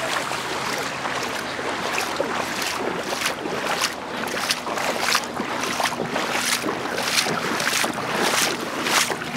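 Fast-flowing floodwater rushing, with wind on the microphone. From about two seconds in, short noisy hits come about twice a second.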